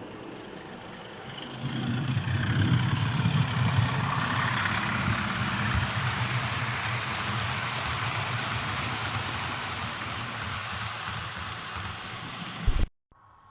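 OO gauge model train running on the layout track: a steady rolling rumble with some thin high squeals that grows loud about two seconds in and then slowly fades. Near the end it jumps briefly louder and then cuts off abruptly.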